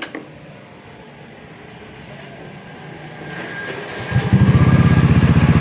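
Automatic scooter with an aftermarket racing exhaust starting up about four seconds in, then running with a loud, fast, even pulsing from the exhaust.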